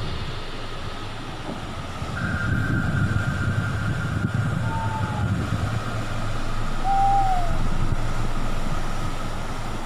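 Low, steady rumble of ocean surf, with a steady high whistle-like tone from about two seconds in and two short arched whistled notes around the middle.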